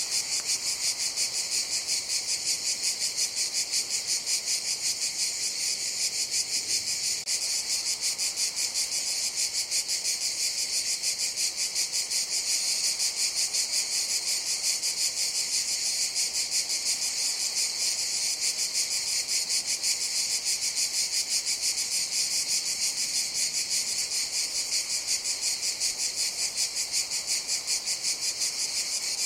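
Cicadas buzzing in a steady, high, rapidly pulsing drone that holds without a break.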